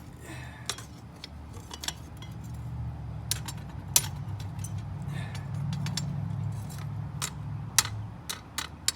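Small pieces of metal clinking and knocking: a series of sharp clicks that come more often in the second half, over a steady low hum.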